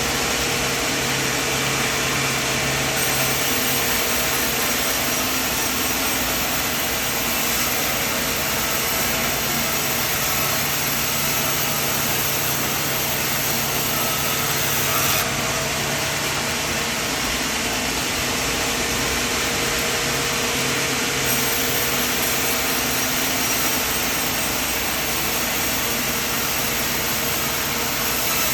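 Portable sawmill running steadily: a constant engine hum under a dense, even noise of the machine at work.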